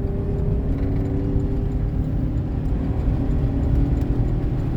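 Truck engine and drivetrain running steadily while driving, with a low road rumble and a few steady engine tones, on a newly replaced transmission.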